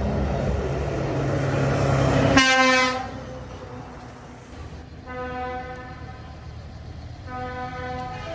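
A heavy truck's engine running loud as it drives by, then an air horn sounding three times: one short loud blast and then two longer, quieter ones.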